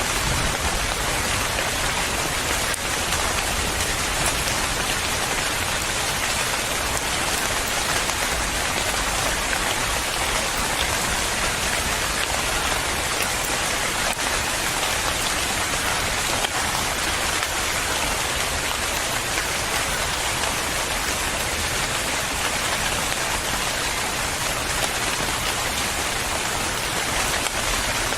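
Steady, even rain falling on a surface, with no breaks or thunder.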